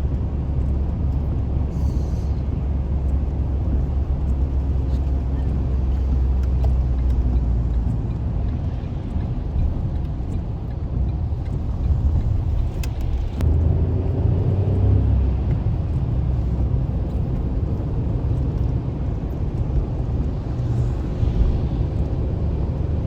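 Car driving along, with a steady low rumble of engine and road noise; the pitch of the low hum shifts slightly about halfway through.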